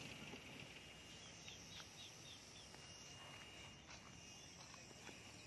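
Near silence: faint open-air ambience with a quick run of about five high bird chirps between one and two and a half seconds in, followed by a faint, thin, steady high tone.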